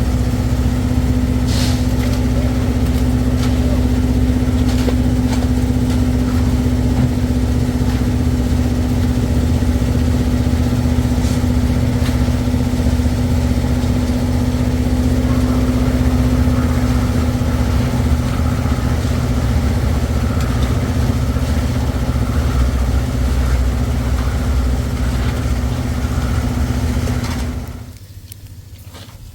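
An engine running steadily at idle, a low rumble with an even hum. It ends abruptly near the end.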